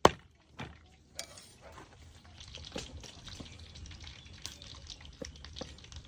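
Cooking in a pan: a sharp knock of a utensil against the pan at the start and a lighter one just after, then a steady hiss with many small crackles from about two seconds in.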